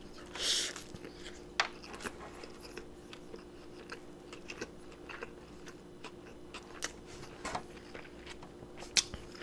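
Close-up chewing of a mouthful of cheesy elk burger: a short hiss about half a second in, then soft, scattered mouth clicks as the bite is chewed.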